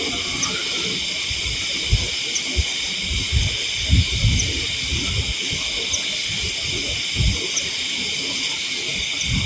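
Steady, high-pitched chorus of night insects, with faint ticks about every second and a half, and irregular low thumps and rustles close to the microphone.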